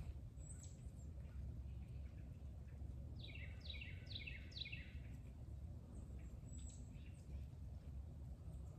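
A wild bird calling a quick run of four falling notes, a few seconds in, with two faint high chirps elsewhere, over a quiet low steady rumble.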